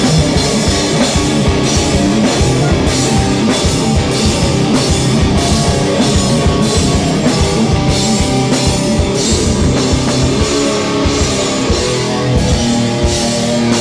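Hardcore band playing live without vocals: distorted guitars, bass and a drum kit pounding out a steady beat with a crash cymbal hit about twice a second, loud and distorted through the camera microphone.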